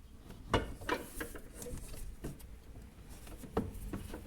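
Scattered light clicks and knocks of a hand wrench and metal parts being worked while the stabilizer bar bushing bolts under a car are tightened.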